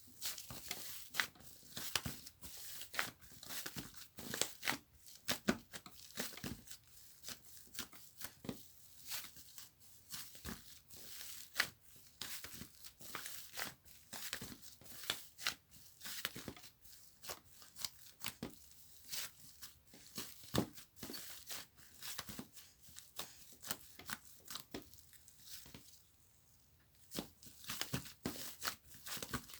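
Slime being squeezed and stretched by hand, giving dense, irregular crackling and popping clicks, several a second, with a short pause near the end.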